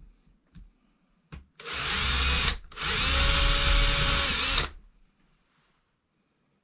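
Electric drill running in two runs, about a second and then about two seconds, with a short pause between, drilling into wood trim. A faint click comes just before the first run.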